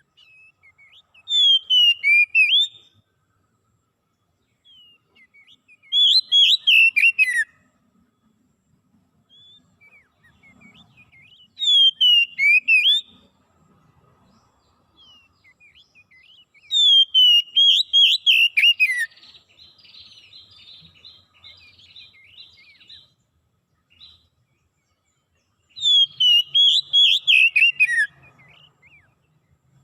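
A songbird singing: five loud, short whistled phrases of warbling notes that fall in pitch, about five seconds apart, with faint chirps between them and a softer buzzy chatter after the fourth phrase.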